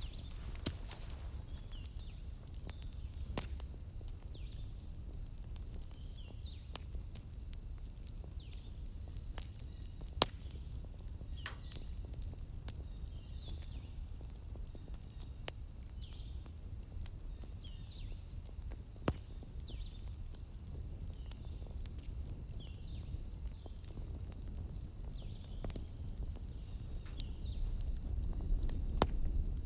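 Wood fire in a fireplace crackling, with scattered sharp pops over a steady low rumble that swells near the end. Behind it runs a steady high-pitched trill with repeated short falling chirps.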